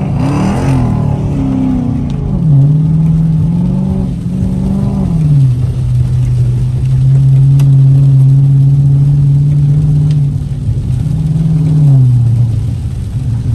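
Car engine revving hard, its pitch rising and falling several times, then held high and steady for several seconds before dropping back near the end.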